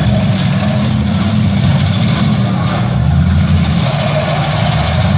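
Demolition derby car engines running and revving together, loud and steady.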